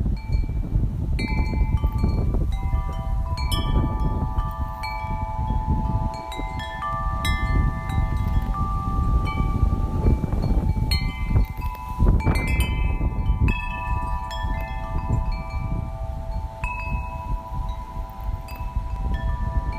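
Metal wind chimes ringing irregularly, several pitches struck at random moments and ringing on, over a steady rumble of wind on the microphone.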